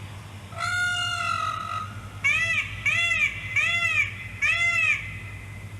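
Peacock calling: one long call, then four short, arching calls in quick succession, about three-quarters of a second apart.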